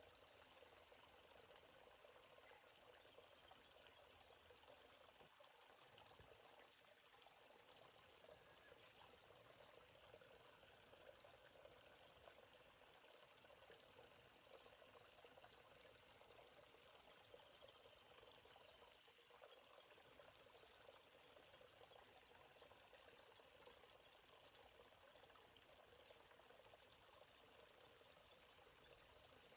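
Steady high-pitched chorus of crickets or similar insects, over a faint murmur of a forest stream.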